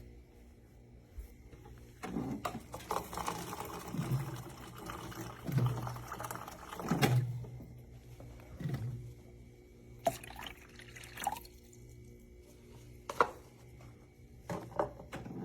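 Water being poured into a coffee maker's water reservoir in several glugs, followed by a few sharp plastic clicks.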